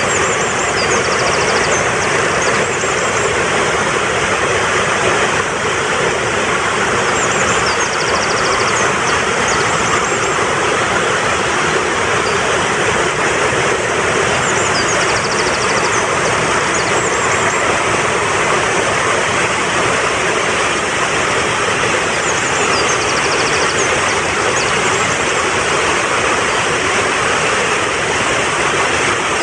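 Fast-flowing mountain stream rushing steadily, with a short high bird trill recurring every seven or eight seconds.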